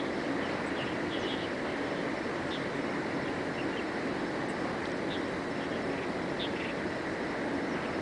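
Birds chirping in short, scattered calls over a steady rushing background noise with a low hum.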